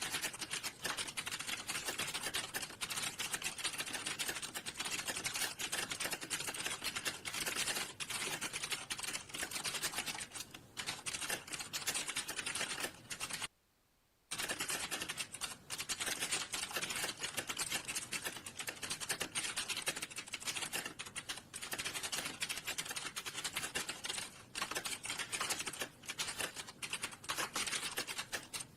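Fast, continuous typing on a computer keyboard, a rapid run of key clicks, with a brief gap about halfway through.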